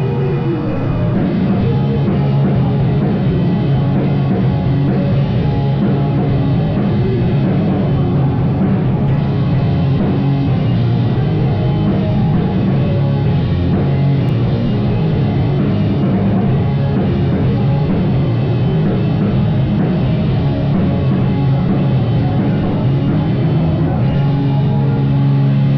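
Rock band playing live, loud and continuous, with a drum kit driving it and heavy low notes.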